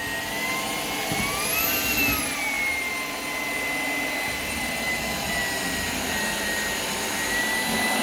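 Shark PowerDetect vacuum running, its motor giving a steady high whine over a rush of air; about a second in the whine rises in pitch, peaks near two seconds, then settles back to its earlier speed.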